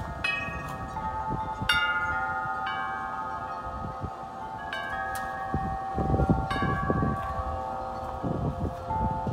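Wind chimes ringing in gusty wind: several clusters of strikes, each ringing on for a few seconds. Wind rumbles on the microphone, swelling in gusts near the middle and end.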